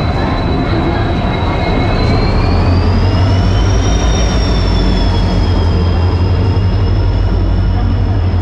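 A passenger train pulling in alongside the platform: a loud, steady low rumble that swells a few seconds in, with a thin high squeal that rises in pitch and then holds.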